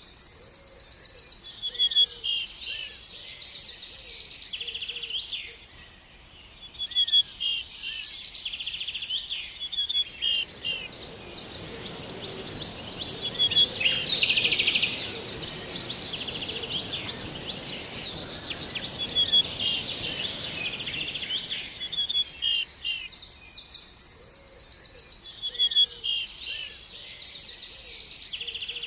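Small songbirds singing, with repeated quick chirps and fast trills. A steady high hiss joins in about a third of the way through and stops about three quarters of the way through.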